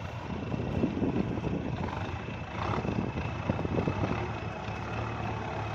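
Kubota tractor's diesel engine running steadily as it drives a rotary tiller through wet soil, the engine note growing a little stronger about four seconds in.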